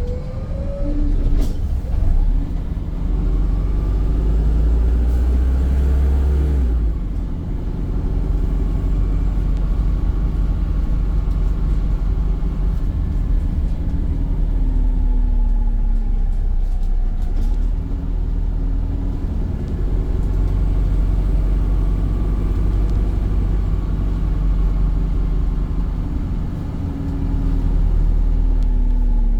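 Volvo B5 bus running on the road, heard with a steady low rumble. Over it a whine rises in pitch as the bus picks up speed and falls as it slows, and this happens twice, with a few sharp clicks.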